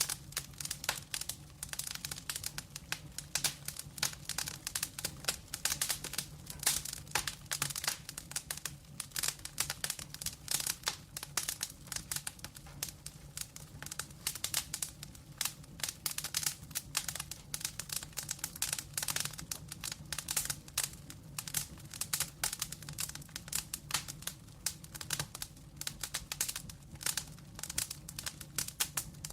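Wood fire crackling: dense, irregular pops and snaps from burning logs, over a low, steady flame rumble.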